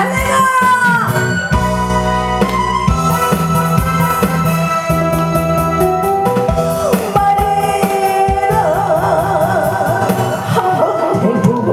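Loud amplified song: a voice singing over a keyboard and drum backing track, holding a long note with wide vibrato near the end.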